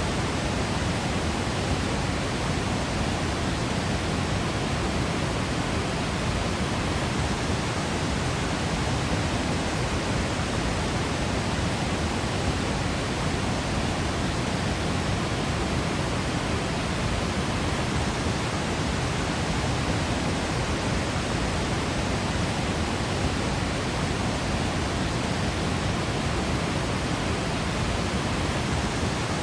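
Waterfall roaring in a steady, unbroken rush of falling water, even across low and high pitches with no changes.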